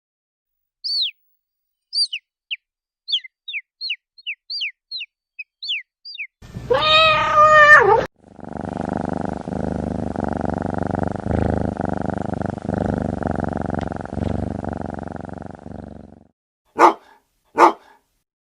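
A string of short falling bird-like chirps, then one drawn-out cat-like meow, then several seconds of rough, pulsing purring. Two short sharp sounds follow near the end.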